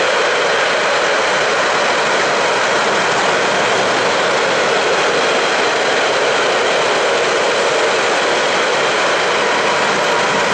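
Freight train of enclosed double-deck car-carrier wagons rolling past, a loud, steady noise of wheels on the rails.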